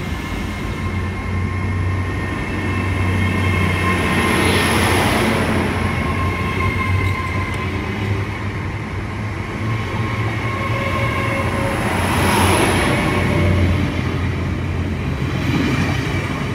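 GWR Class 802 bi-mode train pulling away from the platform and passing close by on its underfloor diesel engines. A steady low hum and a thin whine run throughout, and the sound swells twice, about four and twelve seconds in, as engine-fitted carriages go past.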